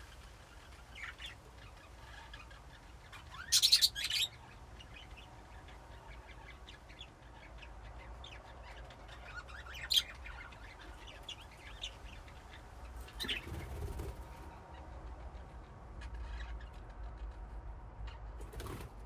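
A group of budgerigars chirping and chattering, with a loud burst of wing flapping about three and a half seconds in and a sharp single tick about ten seconds in.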